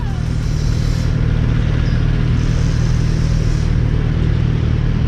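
A vehicle engine running steadily, a low even hum under a noisy hiss of road and wind noise.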